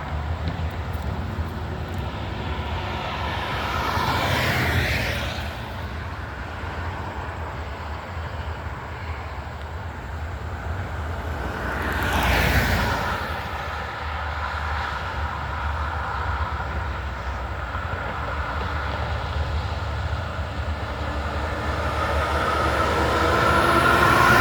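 Heavy diesel semi trucks driving past, with a steady low engine rumble. Two trucks swell loud and fall away, about four and twelve seconds in. Near the end another loud vehicle approaches and grows louder.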